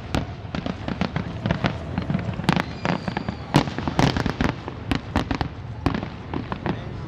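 Fireworks display: a dense, irregular run of sharp bangs and crackles, several a second.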